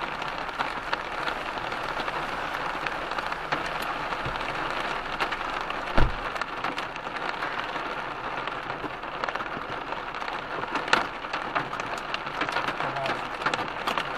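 Heavy thunderstorm rain pelting a car: a steady hiss dotted with many sharp drop impacts, with a heavy thump about six seconds in and a smaller one near eleven seconds.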